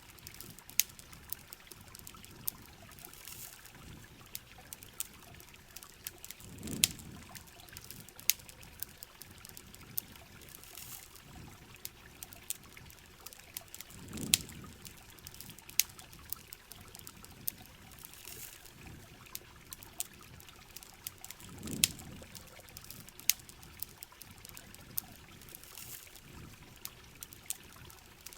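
Heavy rain hissing steadily, with campfire wood crackling and popping in sharp, irregular clicks. A low swell of water recurs about every seven and a half seconds.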